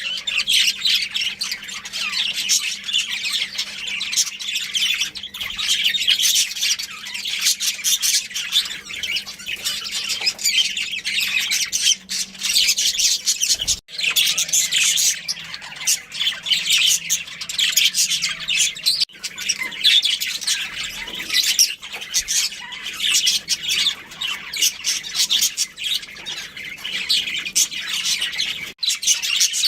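Budgerigars chirping and chattering continuously in a dense, high-pitched stream of squawks, with a brief break about halfway through.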